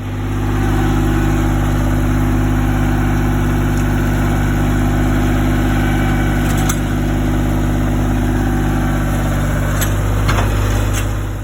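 Power King PK 500 tractor engine running steadily under throttle, with a few light metallic clicks near the end.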